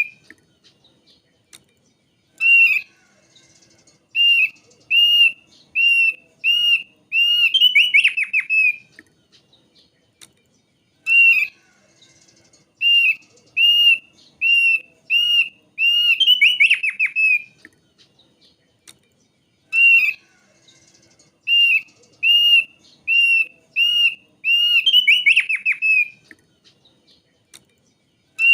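Thick-billed white-eye (thick-billed heleia) singing: series of clear, evenly spaced whistled notes, each phrase ending in a rapid falling flourish. The same phrase comes back about every eight to nine seconds, three times.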